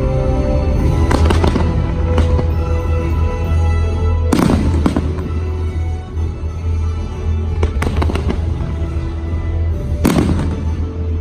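Fireworks bursting over the show's music playing through loudspeakers: about seven sharp bangs, the loudest about four and a half seconds in and near the end, with the music running steadily underneath.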